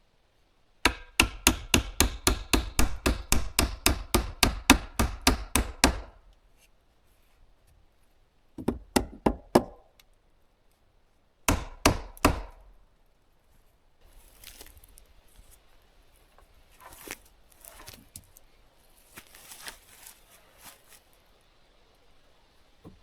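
Hammer blows on wood: a fast run of about twenty strikes at roughly four a second, like driving nails into timber, then two short groups of blows, followed by softer scraping and rustling of handled wood.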